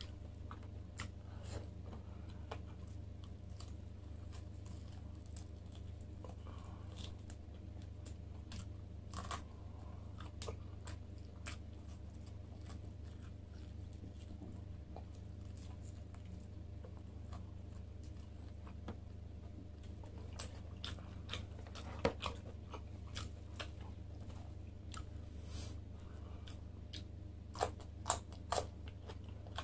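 Close-up chewing and biting as grilled lamb chop is gnawed off the bone and eaten by hand, with small wet mouth clicks and crunches scattered throughout. A few sharper crunches stand out about two-thirds of the way in and twice near the end, over a steady low hum.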